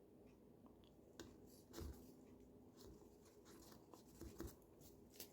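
Near silence with a few faint scratches and soft taps of a hand carving tool working a pumpkin's skin, the clearest about two seconds in and again near four and a half seconds.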